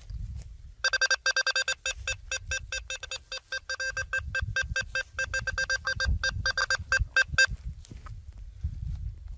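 Quest V80 metal detector giving a fast run of short, same-pitched beeps for about six seconds as its coil passes over metal targets, over low handling rumble.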